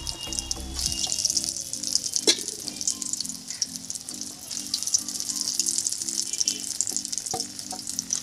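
Egg-coated chana dal cakes (dhoka) sizzling and crackling in hot oil in a kadai, with a few sharp clicks as pieces are added. Soft background music plays under it.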